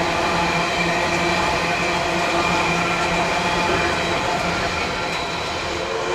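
Freight train hopper wagons rolling past on the track: a steady rolling noise of wheels on rail with faint thin ringing tones over it.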